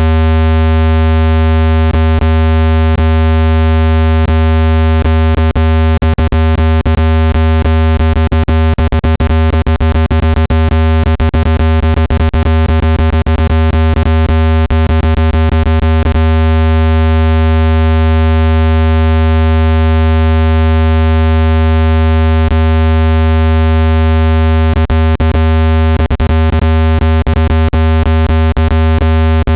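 Loud synthetic speaker water-ejection tone: one deep, steady tone with many overtones, meant to shake trapped water out of a phone speaker. Rapid scattered clicks run through it, thickest through the middle and again near the end.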